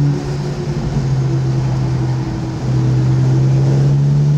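Car engine heard from inside the cabin, running at steady revs. About half a second in it eases off for around two seconds, then comes back to full throttle as the car heads onto the straight.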